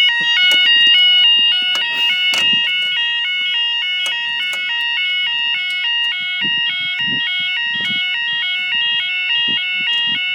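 UK level crossing warning alarm sounding continuously: an electronic yodel alarm of several tones stepping back and forth a few times a second.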